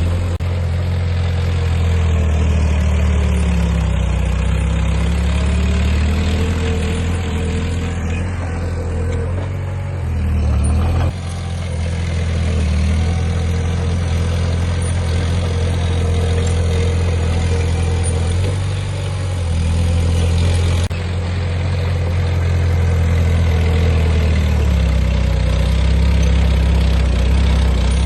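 Heavy diesel earthmoving machine engine running steadily under load, with a deep low drone whose pitch wavers slightly. The sound changes abruptly twice, about a third and two thirds of the way through.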